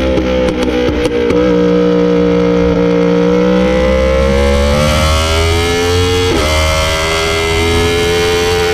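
Motorcycle engine running hard at high revs, its pitch climbing and then dropping sharply at a gearshift about six seconds in. Background music with guitar plays over it.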